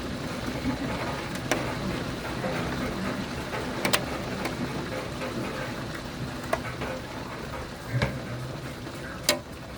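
Severe thunderstorm: a steady wash of heavy rain and wind, broken by a few sharp knocks, five in all, as something strikes nearby.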